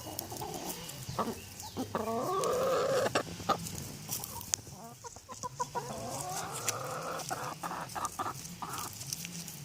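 Rhode Island Red rooster and hens clucking around a food treat, the rooster giving low, wavering food calls as he offers grapes to the hens. There are two stretches of calling, from about a second in and again past the middle, with a few sharp clicks among them.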